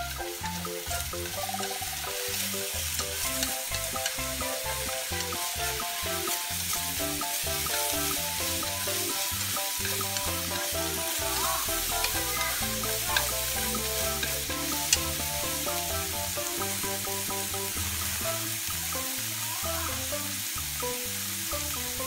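Red onion sizzling as it stir-fries over high heat in a nonstick pan, stirred with chopsticks. There is a steady hiss, with two sharp clicks in the second half.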